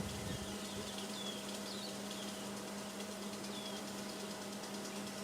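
Short, high, down-slurred bird chirps, repeated every second or so, over a steady low hum.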